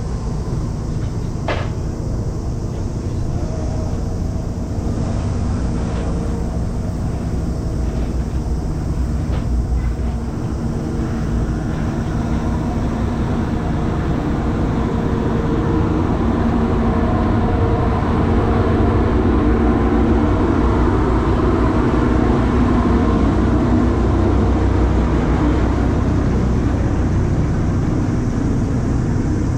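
Sightseeing boat's engine running steadily underway, a low hum and rumble mixed with wind and water noise. It grows a little louder about halfway through.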